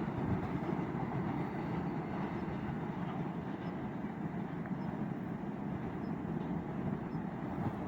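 Freight train wagons running past over the rails: a steady noise without clear wheel clicks.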